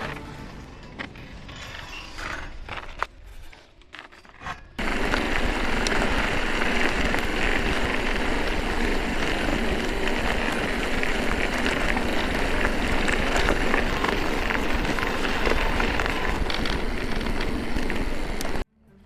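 Aventon Current EXP electric mountain bike being ridden on a trail: a steady rush of wind and tyre noise with small ticks, starting loud about five seconds in after a quieter stretch with a few clicks, and cutting off abruptly near the end.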